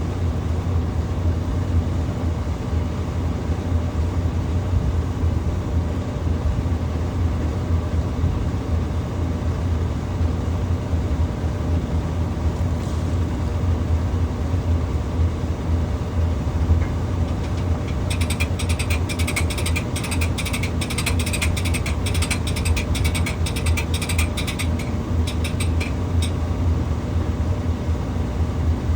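An engine idling steadily with a constant low hum. Over it, a stretch of rapid, rattling metallic clicking starts a little past the middle and lasts about eight seconds.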